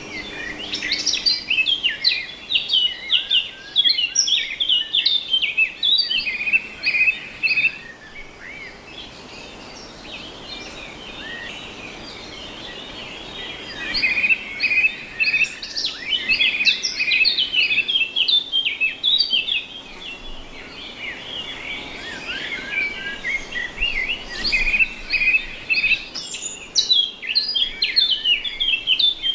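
Birds singing, many short high chirps and trills overlapping in a busy chorus. The chorus thins out for several seconds about a third of the way in, then picks up again.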